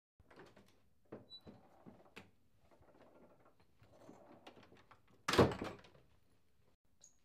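Scattered small knocks and rustles, then one loud thump a little over five seconds in.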